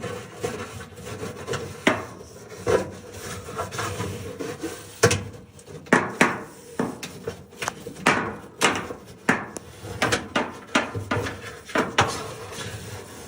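Long stiff-bristled dryer lint brush scrubbing and scraping inside a clothes dryer's lint trap slot in quick, irregular strokes, working loose lint that is stuck in there.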